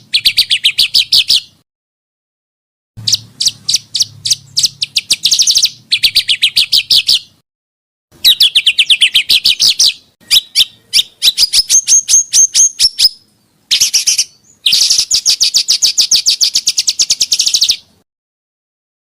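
Small songbirds' rapid chattering calls: bursts of quick, evenly repeated high notes, each lasting one to three seconds, that start and stop abruptly with short silent breaks between them. Around the middle one run climbs to a higher, thinner series of notes.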